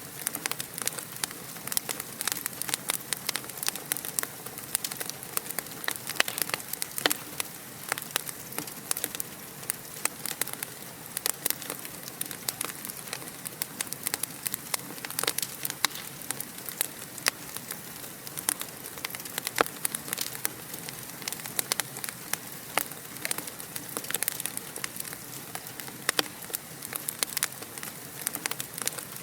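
Fire crackling in a fireplace: many irregular sharp pops and snaps over a steady soft hiss.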